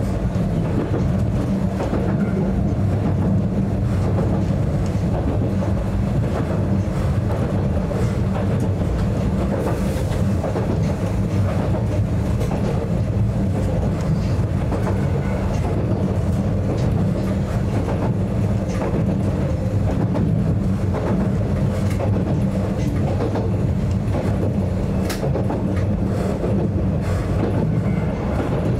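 A narrow-gauge Yokkaichi Asunarou Railway train running steadily, heard from inside the driver's cab: a continuous low rumble of motors and wheels on the rails, with scattered short clicks from the running gear.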